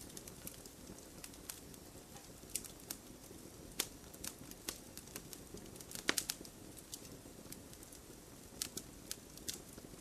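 Fire crackling in a fireplace: irregular sharp pops and snaps over a low, steady rumble of the flames, with a loud cluster of pops about six seconds in.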